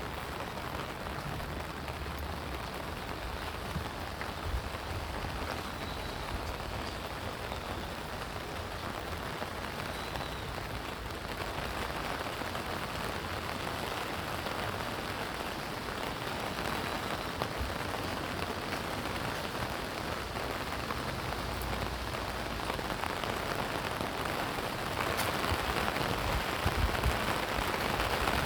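Steady rain falling, a continuous hiss of drops that grows louder near the end.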